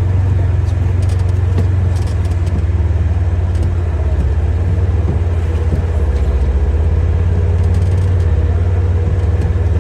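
Polaris Ranger Crew 1000 XP's twin-cylinder engine running steadily while the side-by-side drives, a loud low drone with a fast even pulse. A faint steady whine joins about six seconds in.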